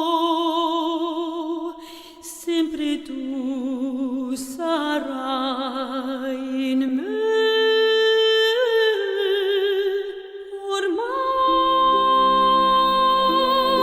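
A female classical voice sings a slow ballad, holding long notes with wide vibrato. Soft sustained accompaniment enters about eleven seconds in.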